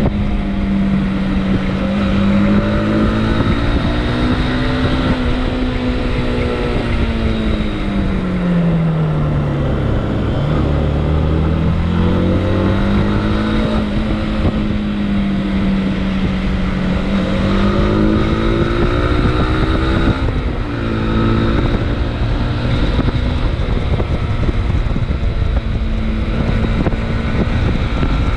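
Motorcycle engine running under way, its pitch rising and falling with the throttle, dropping low about ten seconds in and briefly again about twenty seconds in. Wind noise on the microphone.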